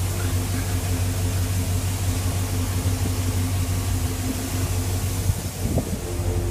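2005 Nissan Titan's V8 idling steadily, a constant low exhaust rumble through a 3-inch Banks cat-back system with a Walker 3-inch muffler.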